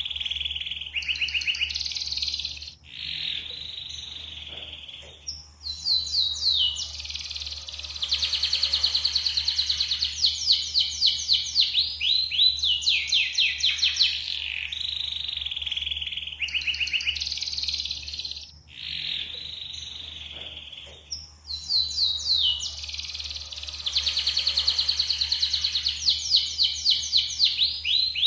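Domestic canary singing continuously: fast rattling trills alternate with smoother warbled passages, all high-pitched, over a steady low hum.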